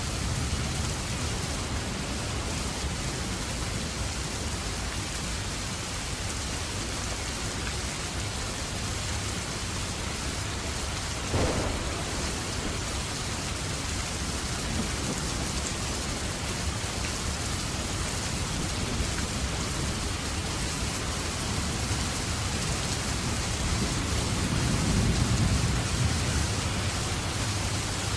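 Steady heavy rain pouring down, an even hiss. There is a single sharp knock about eleven seconds in, and a low rumble swells briefly near the end.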